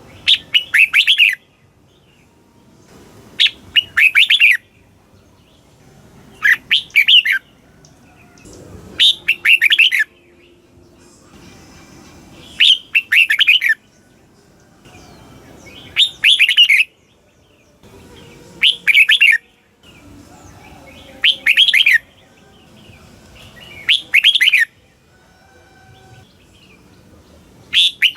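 Red-whiskered bulbul singing the same short, bright phrase of quick notes about every three seconds, about ten times over. It is a male's song recording of the kind played to caged bulbuls to excite them into singing.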